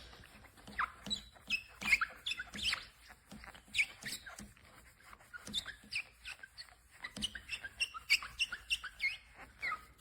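Foam applicator sponge squeaking in quick, irregular chirps as it is rubbed back and forth over glossy car paint, working scratch-remover compound into a scratch.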